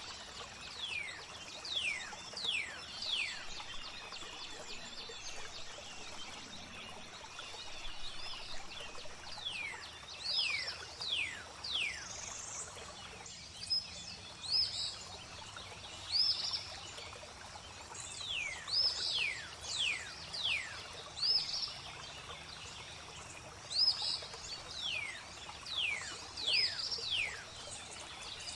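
Birds singing: clear whistled notes that each slide quickly down in pitch, coming in little runs of two to four every few seconds, over a steady background of flowing water.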